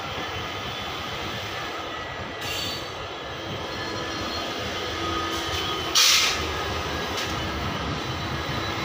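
Passenger train coach rolling along the track, a steady rumble of wheels and car body, with a brief loud burst of noise about six seconds in.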